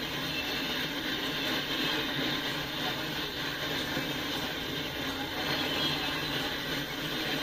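Freight train of autorack cars rolling past: a steady noise of steel wheels running on the rails.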